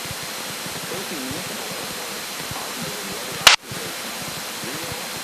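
Steady hiss of the Cessna 172K's cabin and engine noise coming through the headset intercom audio, with faint voices underneath. A sharp click about three and a half seconds in, like a radio or intercom key click, briefly cuts the hiss before it resumes.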